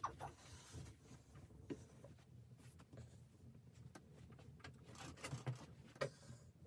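Faint, scattered clicks, taps and light rustling, as of small objects being handled, with a sharper knock near the end.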